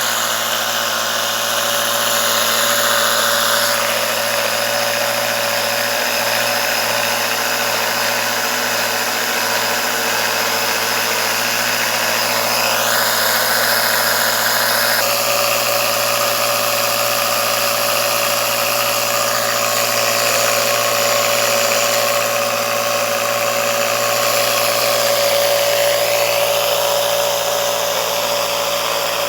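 Small electric air compressor running steadily while it pumps up an inner tube.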